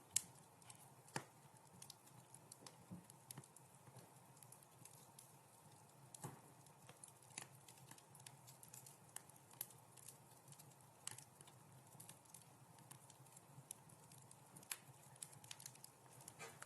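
Wood fire crackling in a fireplace: irregular sharp pops and snaps over a faint steady hiss, the loudest pop just after the start.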